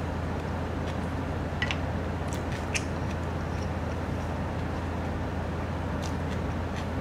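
A person chewing a mouthful of jjapaghetti noodles, with a few faint short wet clicks about two seconds in, over a steady hiss and low hum.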